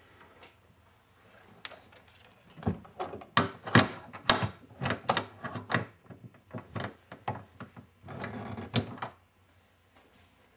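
Irregular knocks, clicks and clatter of things being handled, from about two seconds in until about nine seconds, with a short scraping stretch near the end.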